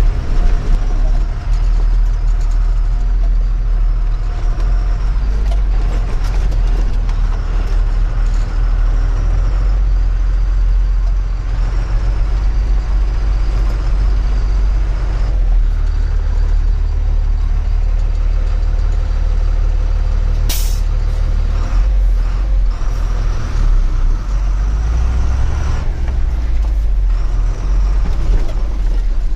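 An empty truck's diesel engine running under way, with many small knocks and rattles. About two-thirds of the way through comes one short, sharp hiss of air from the air brakes.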